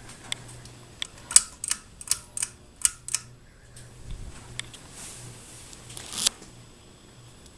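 Heritage Lancaster ceiling fan running with a low, steady motor hum, under a series of sharp clicks and rattles, the loudest about a second in and just before the end.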